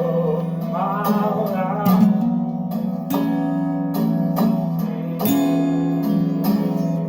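Song with strummed acoustic guitar chords. A sung line wavers and trails off in the first two seconds, then the guitar carries on alone with even strums.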